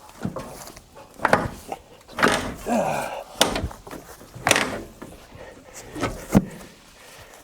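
A series of irregular knocks and clunks, about six over several seconds, from hands-on work around the old bus and its tire.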